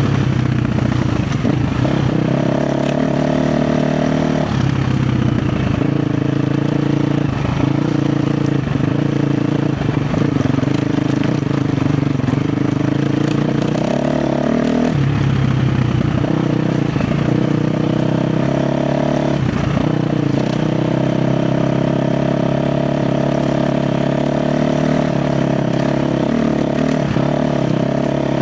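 KTM 350 XC-F's single-cylinder four-stroke dirt-bike engine running under load on a rough trail, its pitch rising and falling with the throttle, with a few short knocks and clatter.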